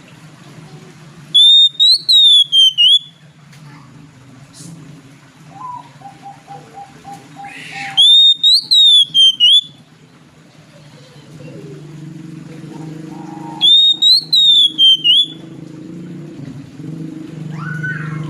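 Oriental magpie-robin (kacer) singing three loud whistled phrases, each a quick run of high notes that rise and fall, about 1.5 s long and some six seconds apart. Between the first two, a softer string of lower, evenly repeated notes.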